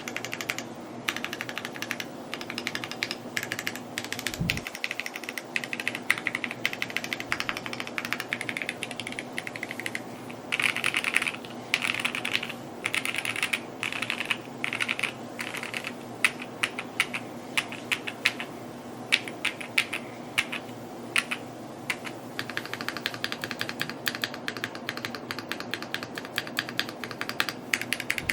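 Mode Encore 2 mechanical keyboard being typed on at a fast, continuous pace: a dense, irregular stream of key clicks and clacks. A single low thud comes about four and a half seconds in.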